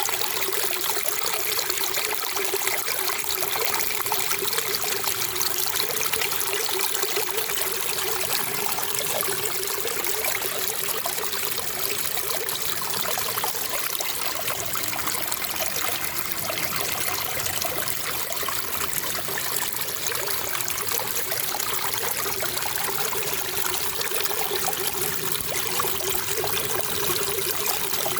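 Running water trickling and splashing steadily, with no change in level.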